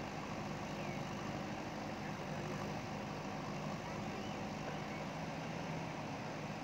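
JCB ecoXcellence backhoe loader's diesel engine running at a steady, even pace.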